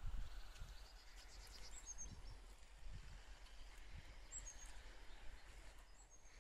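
Faint outdoor ambience with birds chirping now and then in short, high calls, and a few soft low thumps.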